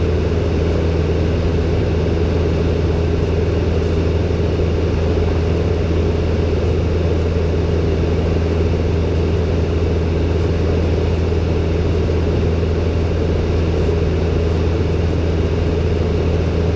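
Robin DR400-120's four-cylinder Lycoming piston engine and propeller droning steadily in cruise flight.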